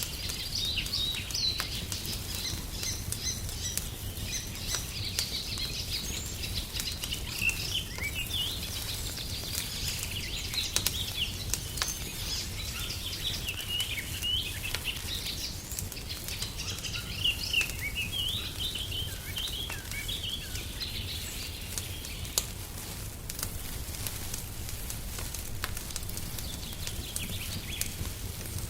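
Wood fire crackling with scattered sharp pops over a steady low rumble, while small songbirds chirp and twitter; the birdsong thins out toward the end.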